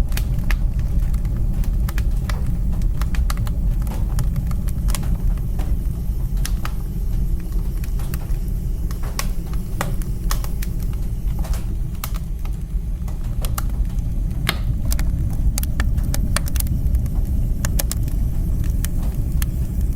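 Wood fire crackling in a fireplace: a steady low roar of flame with frequent sharp, irregular pops and snaps.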